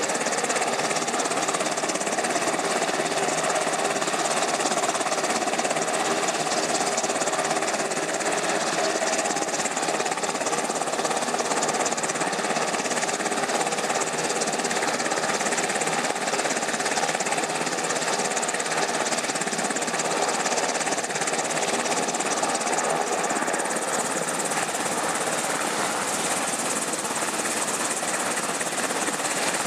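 Aircraft engines running steadily, a loud even drone with a fast pulsing chatter and several held tones that do not rise or fall.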